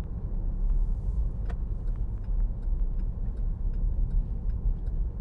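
Road noise of a vehicle driving at about 40 mph: a steady low rumble of tyres and driving, with faint scattered ticks and one sharper click about a second and a half in.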